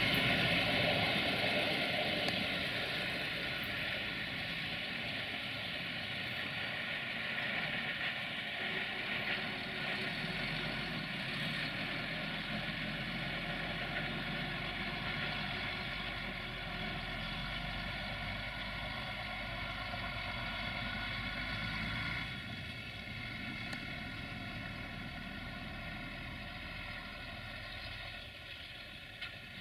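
A train's steady engine hum slowly fading as it moves away, dropping a step further about three quarters of the way through.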